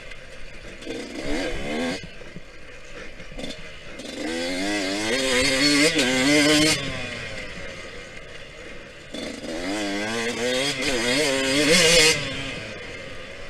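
Yamaha YZ125X two-stroke single-cylinder dirt bike engine on the throttle: twice it revs up for a few seconds, the pitch climbing and wavering, then drops off sharply as the throttle is closed, running quieter in between.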